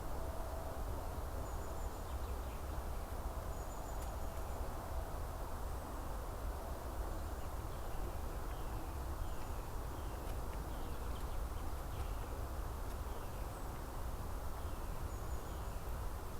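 Forest ambience with a steady low rumble and hiss. From about halfway through there is a run of short, falling chirps, and a few faint, thin, high calls come now and then.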